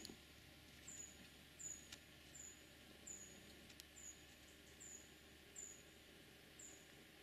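Faint, thin, high calls of a small bird repeated about once every 0.7 seconds, each short note sliding slightly down in pitch, over an otherwise near-silent field edge.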